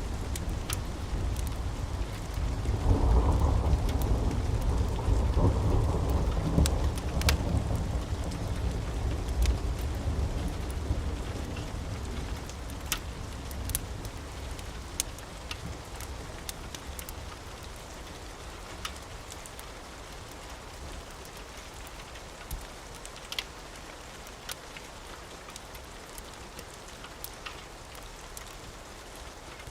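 Steady rain with a long roll of thunder that swells about three seconds in and slowly fades away over the following ten seconds. Scattered sharp ticks sound through the rain.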